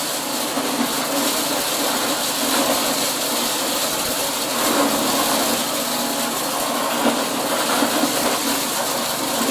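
Corn-processing machine running steadily, giving a loud, even mechanical din without pauses.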